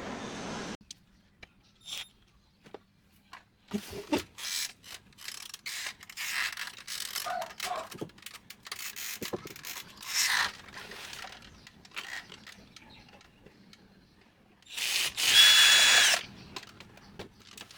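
Clicks, knocks and short rattles of printer parts being handled and taken apart, then an electric screwdriver runs in one burst of about a second near the end.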